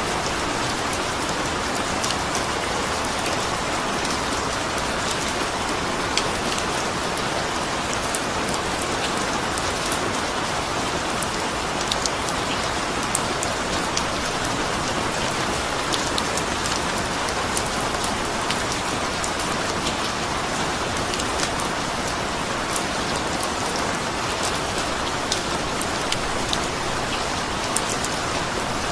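Steady rain falling, a continuous hiss with many close drops tapping sharply on a surface throughout.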